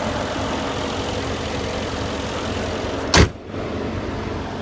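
Mercedes-Benz S63 AMG's 5.5-litre twin-turbo V8 idling steadily, then a single loud bang a little over three seconds in, followed by a duller steady noise.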